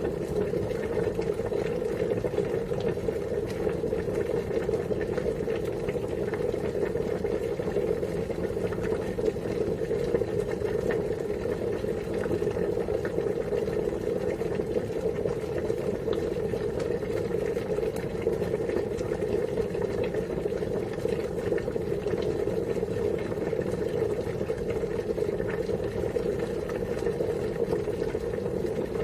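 Water boiling steadily: a dense, even bubbling that holds the same level throughout.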